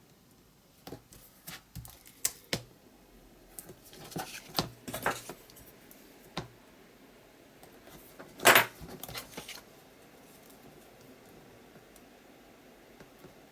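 Paper and tape being handled: scattered small clicks, taps and rustles, with one louder short rasp about eight seconds in, like tape being torn or peeled.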